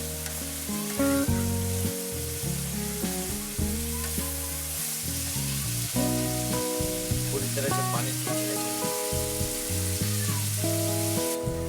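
Food frying in hot oil in a pan, with a steady sizzle, over background instrumental music. The sizzle cuts off near the end.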